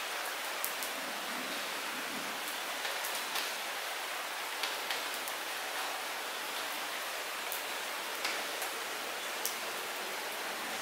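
Light rain falling steadily, a soft hiss with scattered individual drops ticking sharply on nearby surfaces.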